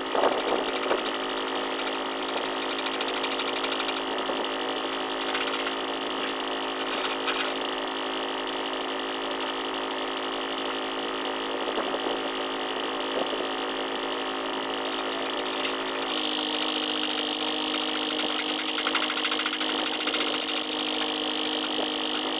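Steady machinery running with a constant droning tone. About two-thirds of the way through its pitch shifts abruptly and a brighter, slightly louder high band joins it.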